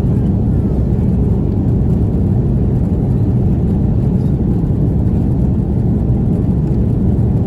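Steady low rumble of jet engines and rushing air heard inside an Airbus A330-300 passenger cabin.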